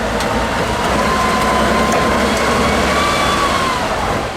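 Heavy off-road trial truck's engine running steadily, with a thin whine above it that fades near the end as the overall sound drops.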